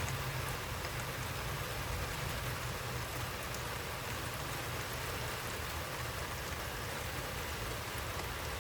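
Heavy thunderstorm rain pouring steadily, a torrential downpour with scattered drops ticking.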